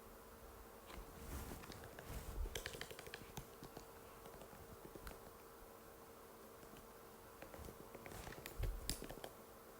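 Typing on an Apple MacBook butterfly keyboard: two quick runs of key clicks, one starting about a second in and another near the end, over a faint steady hum.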